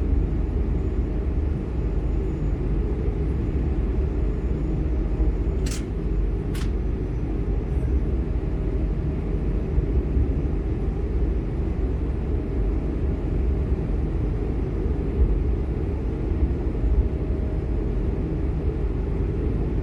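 Steady low rumble inside the cabin of an Airbus A220-100 in its climb after takeoff: the Pratt & Whitney PW1500G geared turbofans and rushing airflow. Two short clicks come about six seconds in.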